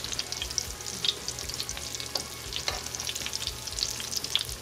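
Cornflake-coated avocado wedges frying in shallow canola oil in a cast iron skillet, turned with metal tongs: a steady sizzle with crackling and a few sharper pops.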